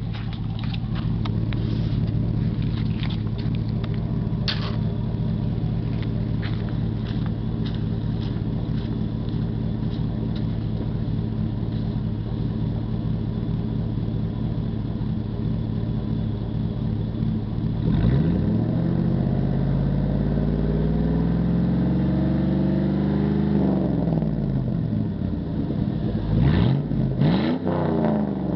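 2002 Chevy Silverado's 5.3 L V8 with straight pipes, no mufflers and a Y-pipe after the cats, idling steadily. About two-thirds of the way in it is revved in one slow rise and fall, and near the end it is blipped a few times in quick succession.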